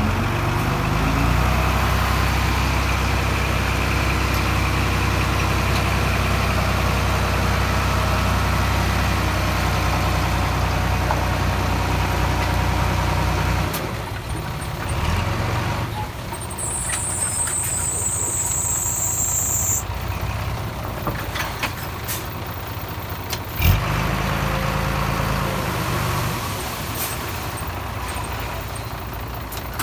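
Diesel engine of earthmoving machinery running steadily, then dropping away about halfway through. A single sharp knock comes later, and the engine picks up again briefly.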